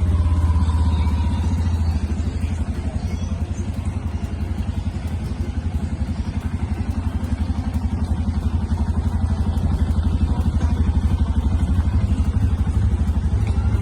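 Motorcycle engine running close by, a steady low rumble with a fast even pulse.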